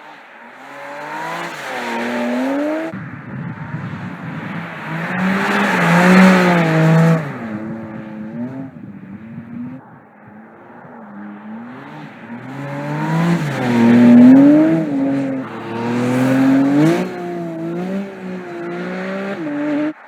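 Porsche 718 Cayman GT4 RS's 4.0-litre flat-six engine accelerating hard several times, its pitch climbing and then dropping sharply at each gear change, loudest about six and fourteen seconds in.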